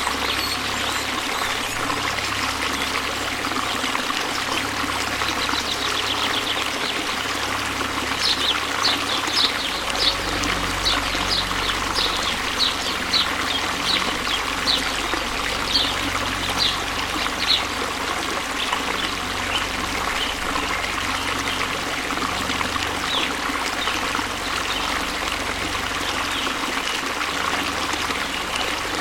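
Waterfall: a steady rush of falling water. From about 8 to 18 seconds in, a run of short, sharp, high-pitched chirps or ticks sits on top of it.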